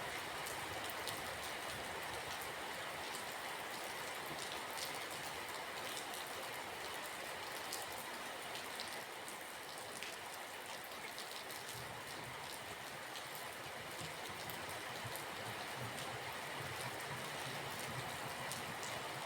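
Steady rain, with many individual drops heard as small ticks over an even hiss. A low rumble comes in under it about two-thirds of the way through.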